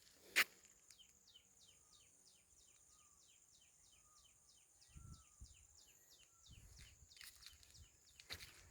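Faint outdoor ambience of insects and birds: a fast, even series of chirps, about five a second, for about five seconds over a steady high insect hiss, with a few faint bird calls. A single footstep sounds near the start, and more footsteps come in near the end.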